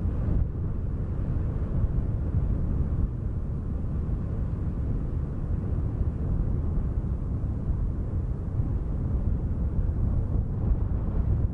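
Wind ambience: a steady low rumble of wind with no distinct events.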